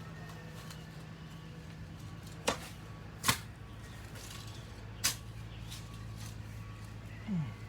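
Three sharp knocks of digging in garden soil, about a second apart and then two seconds later, over a steady low hum, with a brief falling tone near the end.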